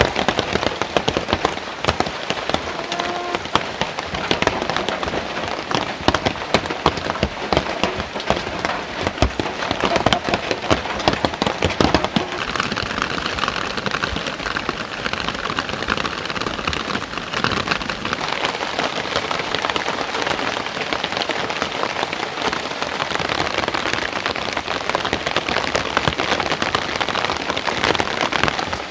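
Steady rain falling, with many separate drops striking hard surfaces close by.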